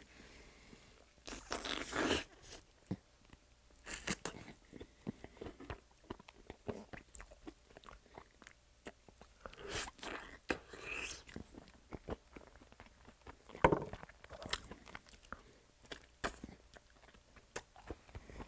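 A person biting and chewing crispy fried chicken coated in maple butter garlic sauce, close to the microphone. Crunches come in irregular bursts between quieter chewing and finger-licking.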